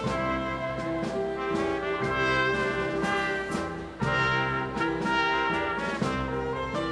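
Live dance band playing a tango, with trumpets and trombones carrying held chords and melody lines over the rhythm section.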